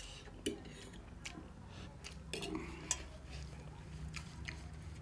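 Cutlery making a few light, scattered clinks against a plate during eating, with soft chewing.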